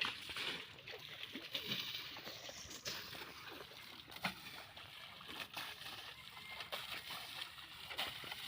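Pond water splashing and sloshing in uneven bursts as a tractor is washed.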